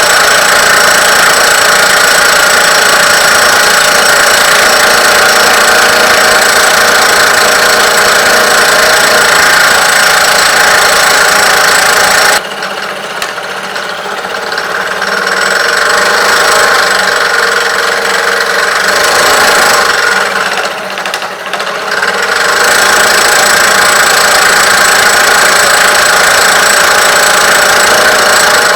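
Restored vintage sawmill machinery running with a loud, steady mechanical drone. About twelve seconds in it drops suddenly to a quieter level, then comes back to full loudness about ten seconds later.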